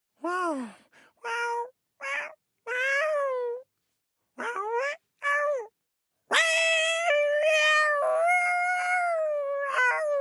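Domestic cat meowing: about six short meows separated by clean silences, then one long drawn-out meow lasting around four seconds near the end.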